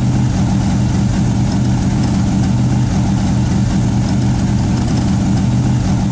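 Car engine idling steadily, a loud low rumble with an even pitch.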